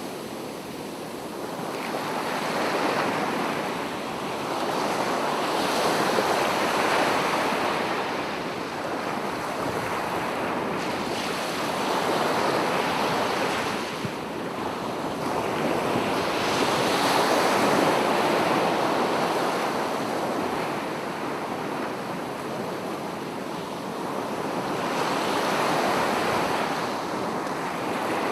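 Sea waves breaking and washing on the shore, swelling and fading every few seconds.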